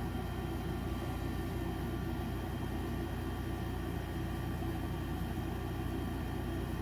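Electric fan running steadily: an even hum and hiss with a few faint steady tones over it.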